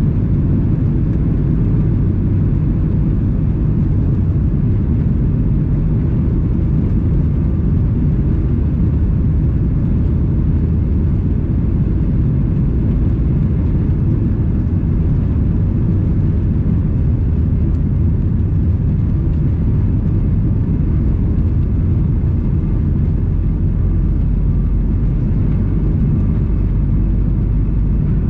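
Steady, loud cabin roar of a Boeing 737 MAX 8 in the climb after takeoff: its CFM LEAP-1B engines at climb thrust plus airflow noise, heard inside the cabin as an even low rumble.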